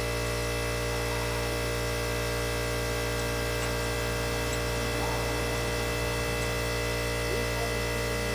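Steady electrical or machine hum: an unchanging drone made of several fixed tones over a low hum.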